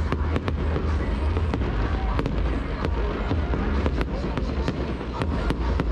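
Fireworks display going off: an irregular run of sharp cracks and pops, about three a second, over a deep continuous rumble of bursts.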